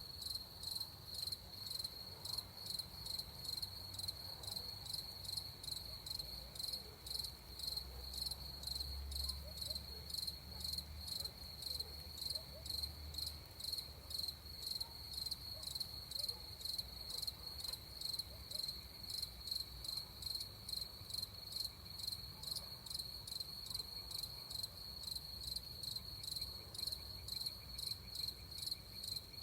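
Crickets chirping steadily in a high, even pulse, about two chirps a second, with a faint low rumble swelling briefly partway through.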